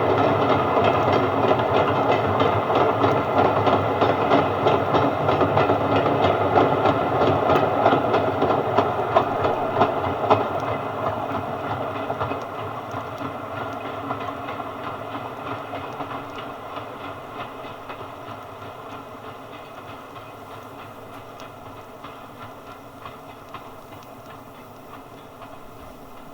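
A train running on the line with its wheels clicking over the rail joints. It is loudest at first and fades steadily as the train draws away.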